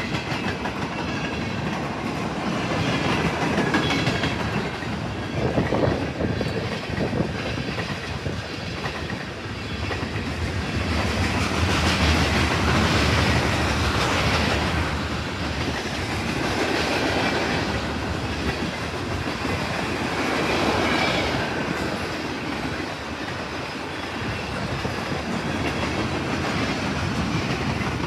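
Cars of a mixed freight train rolling past at close range: a continuous rumble with wheels clacking over rail joints, swelling louder and easing off as the cars go by.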